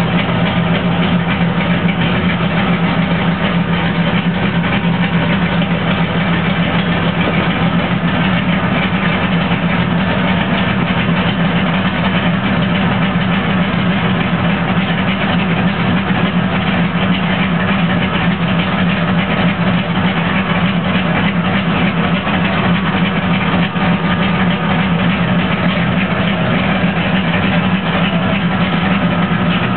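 Ford 302 V8 of a 1997 Mustang LX idling steadily, heard from inside the cabin.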